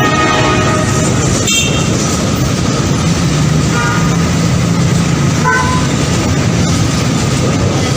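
Train horn sounding a chord that fades out in the first second or so, followed by a passing train's steady, loud rumble of engine and wheels, with a couple of brief short tones in the middle.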